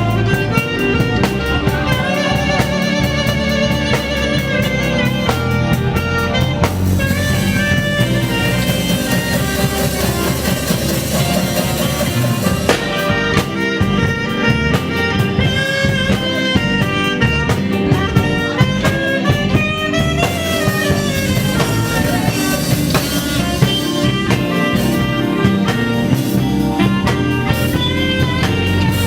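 Live band playing an instrumental passage on drum kit, guitar and keyboards, with a lead line of held notes that bend up and down.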